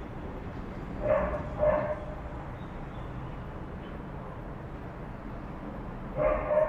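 Dog barking: two short barks about a second in, then two more near the end, over a steady low background hum.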